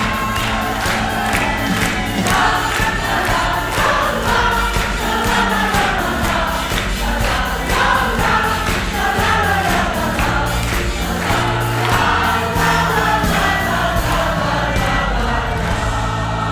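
A choir singing live over a backing track with a steady beat and a bass line.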